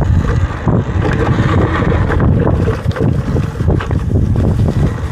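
Wind buffeting the microphone while riding a Talaria electric dirt bike over rough ground, with frequent short rattling knocks. The battery is rattling loose in its frame because its rubber spacers have worn down.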